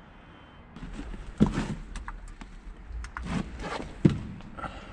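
Footsteps and scuffs on debris, with a few sharp knocks; the loudest knocks come about a second and a half in and near the end.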